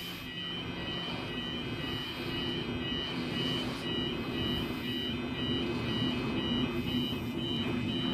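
Endeavour diesel railcar approaching, its engine hum growing louder, with a high electronic warning beep repeating about twice a second throughout.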